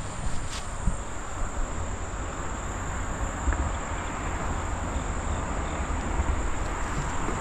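Insects, crickets or katydids, chirring in a steady high thin drone over a constant low rushing noise.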